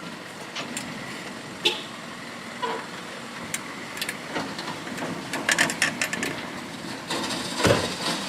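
Scattered knocks and clicks of equipment being handled and stacked, over the steady noise of a vehicle running, with a heavier knock near the end.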